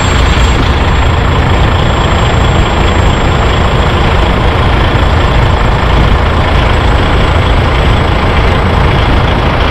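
DAF truck's diesel engine running, a steady low rumble with noise that stays even and does not change.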